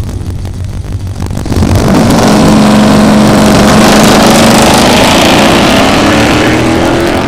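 Plymouth station wagon's drag-race engine idling low at the starting line. About a second and a half in it jumps to a loud, full-throttle note, and its pitch climbs steadily as the wagon launches and pulls away down the strip.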